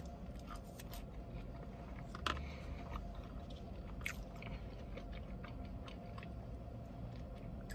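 A person chewing food close to the microphone, with soft, irregular mouth clicks and smacks and a couple of sharper clicks.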